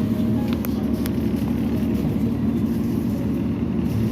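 Tour boat's engine running steadily under way, a constant low drone.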